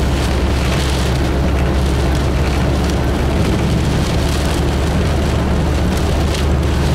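Heavy rain on a moving car and tyres on a flooded road, heard from inside the cabin as a loud, steady rushing noise over a deep rumble.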